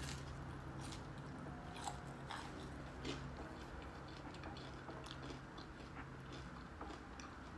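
Close mouth sounds of a person biting and chewing a battered fried shrimp: scattered small crunches and wet clicks, over a steady low hum.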